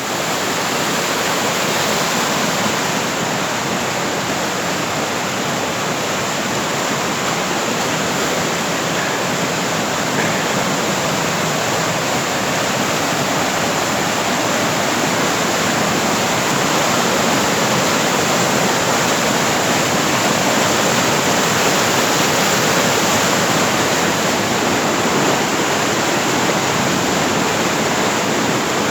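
Fast-flowing river water rushing, loud and steady.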